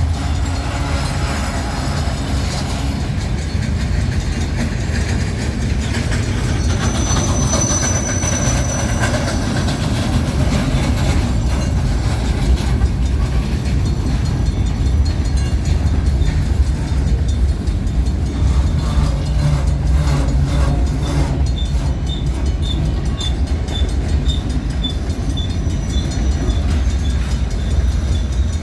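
Train cars rolling past with a steady, loud rumble of wheels on rails, and a brief high wheel squeal about seven seconds in.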